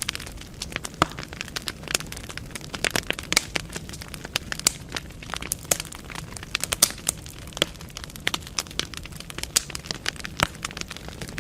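Burning firewood in a fireplace crackling, with many irregular sharp pops and snaps over a steady low rumble of the flames.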